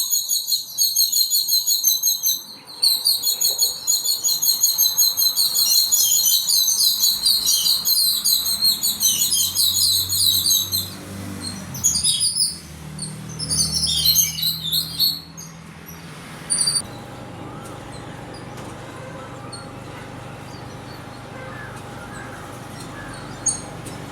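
Birds chirping in fast, continuous runs of high notes, thinning to scattered bursts about halfway through, with a lone chirp or two later. A steady low hum carries on underneath through the second half.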